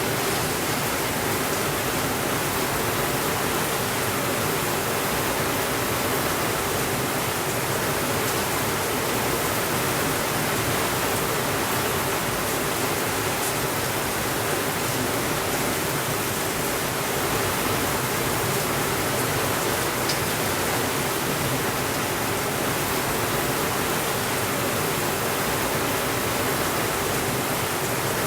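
Steady rainfall as a dense, even hiss with no change in level, and a faint tick or two.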